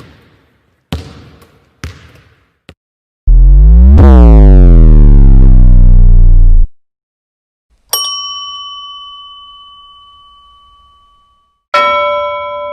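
A run of separate sound effects: a few short knocks, then a loud buzzing tone that shifts in pitch for about three seconds, then a bell ding that rings out slowly, and a second, lower ding near the end.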